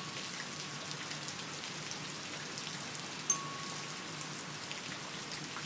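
Steady rain on a surface, part of a recorded nature-sound ambience. A brief faint high note comes about three seconds in.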